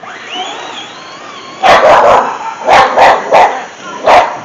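A dog barking, about six sharp barks in quick clusters through the second half.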